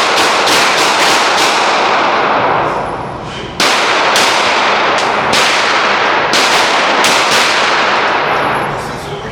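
Gunfire at a shooting range: a string of sharp shots in quick clusters, each with a long echoing tail, and a lull of about two seconds partway through.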